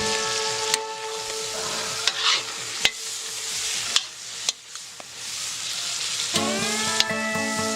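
Food frying in a pot, a steady sizzle broken by sharp clicks of a utensil stirring and knocking against the pot. Music comes back in about two-thirds of the way through.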